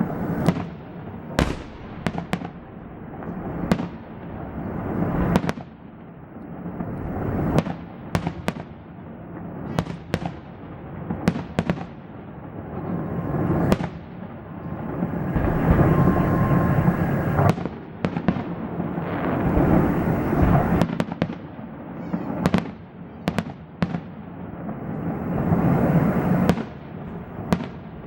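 Fireworks salute: many sharp bangs in irregular volleys, with a rumbling noise between them that swells and fades over a few seconds at a time.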